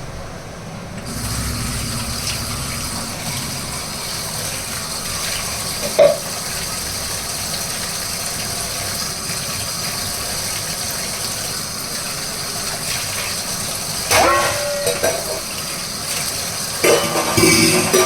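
Steady hiss of water that starts about a second in, with a sharp knock about six seconds in and clattering near the end.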